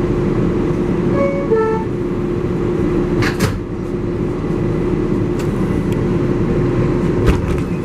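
R188 subway car's door-closing chime, two falling tones about a second in. Then the 7 train runs with steady rumble and hum, with sharp rattles about three seconds in and near the end.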